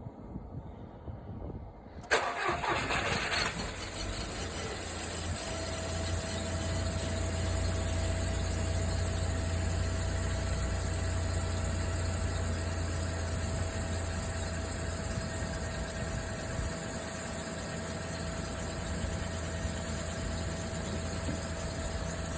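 2009 Škoda Fabia's 1.2-litre three-cylinder 6-valve petrol engine (BBM) being cold-started at −26 °C. About two seconds in, the starter cranks briefly and the engine catches within about a second and a half, then settles into a steady cold idle, joined a couple of seconds later by a thin steady whine.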